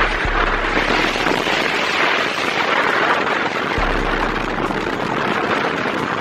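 Vehicle moving at speed: a steady rush of wind and engine noise, with a low rumble coming and going.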